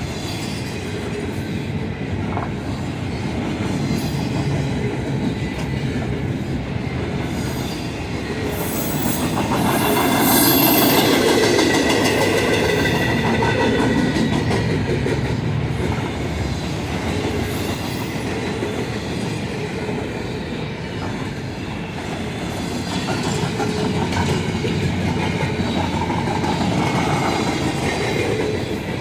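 Freight train cars rolling past with wheels clacking over the rail, and metallic wheel squeal rising from about nine seconds in and peaking a few seconds later before easing off.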